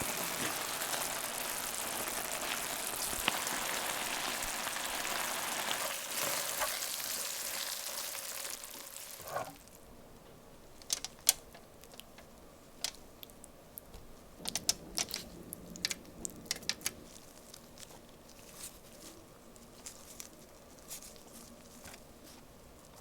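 Food sizzling in a frying pan, a steady sizzle that stops about halfway through. After it, scattered light clicks and taps of kitchen utensils.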